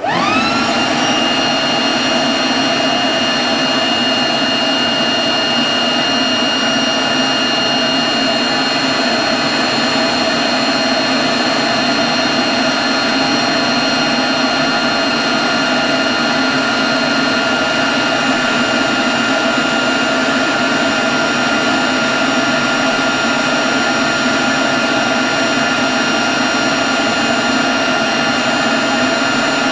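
Leaf blower spinning up in the first half second with a rising whine, then running steadily: a constant high whine over the rush of air.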